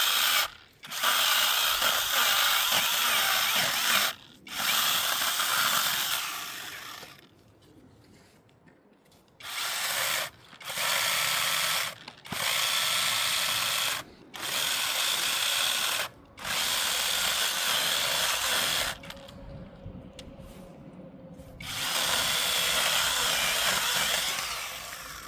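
A small power tool whirring in repeated bursts of one to three seconds, switched on and off about nine times with short pauses between.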